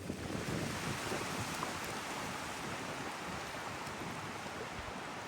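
Steady rushing noise of wind and lake water lapping, coming in abruptly and holding steady.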